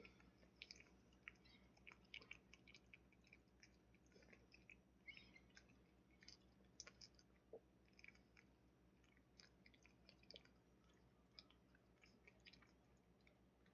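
Faint, irregular small clicks and smacks of a Pekingese dog chewing.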